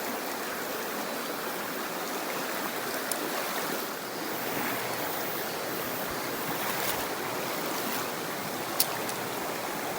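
Mountain stream water rushing steadily, with a sharp click near the end.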